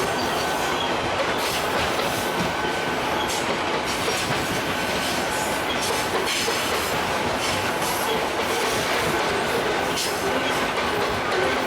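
Freight train wagons rolling past at close range, their wheels clattering over the rail joints with irregular clicks, and a faint, steady wheel squeal.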